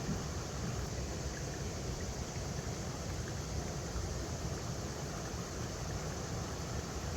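A river flowing over rocks, a steady, unbroken rush of water with a deep rumble underneath.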